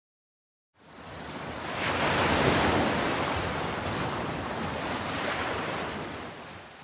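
Sea waves washing in surf. The sound fades in about a second in, swells to its loudest around two seconds in, then eases and fades away at the end.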